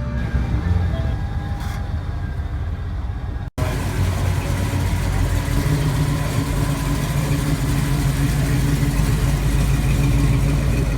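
Car engine running steadily with a deep low rumble, starting abruptly after a hard cut about three and a half seconds in.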